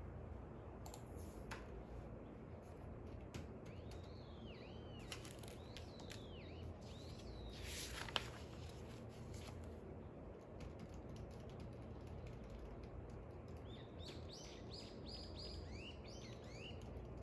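Faint birdsong: two short runs of arched chirps, about four seconds in and again near the end. Under them is a steady low rumble of background noise, with a few scattered clicks, the sharpest about eight seconds in.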